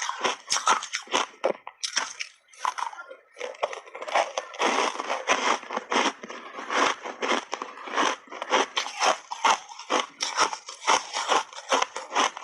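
Big bites of hard ice chunks dusted with matcha powder, crunched and chewed close to the microphone: rapid, dense crunching that pauses briefly about two seconds in, then resumes.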